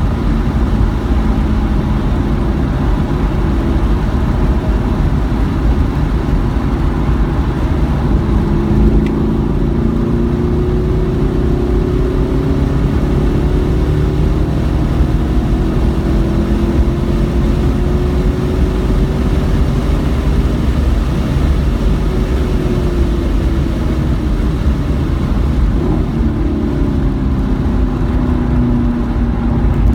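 Car engine under hard throttle while lapping a race circuit. Its pitch rises slowly for a long stretch, falls as the car slows, then dips and climbs again near the end, over a heavy, steady rumble of road and wind noise.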